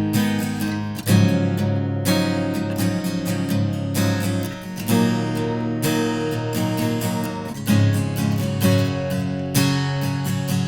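Strinberg SD300 acoustic guitar strummed in chords, with a strong new strum about every second or so over ringing strings. It is heard through its pickup preamp and a microphone.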